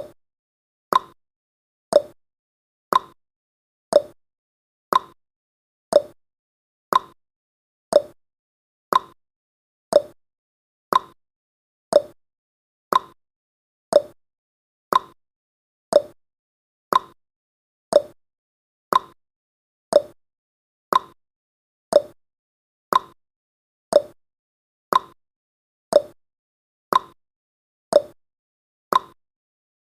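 Countdown timer's tick sound effect: a short, sharp tick once every second, even and unchanging.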